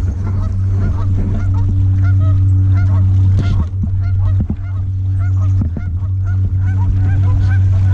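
Bixpy K1 electric kayak motor running at high speed with a steady low hum. Many short high chirps sound over it, with a few knocks near the middle.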